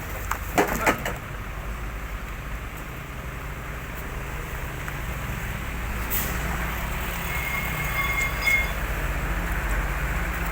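Heavy road traffic: a large vehicle's engine running low and steadily, slowly growing louder, with a few sharp knocks about a second in and a brief thin high squeal near the end.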